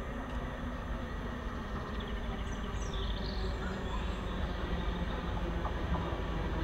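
Class 390 Pendolino electric train running slowly into the platform: a steady low rumble and hum that grows gradually louder as it approaches.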